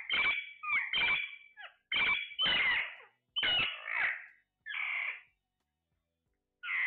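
A parrot calling in a quick string of short, squawking notes for about five seconds, then, after a pause, one more call near the end.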